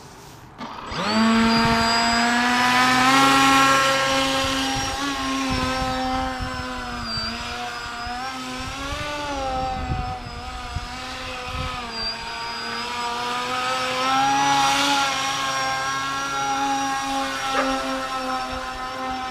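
RC airplane motor and propeller running, starting up about a second in and then holding a steady hum whose pitch rises and dips slightly with the throttle.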